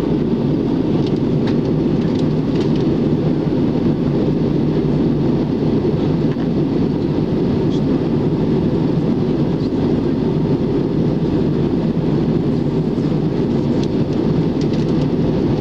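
Airbus A321 cabin noise in flight: a steady, even roar of engines and airflow heard from inside the cabin, strongest in the low range.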